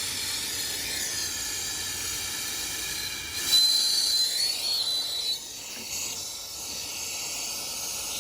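Steady high hiss of gas escaping under pressure, growing louder for a couple of seconds in the middle with a thin whistle, then settling back.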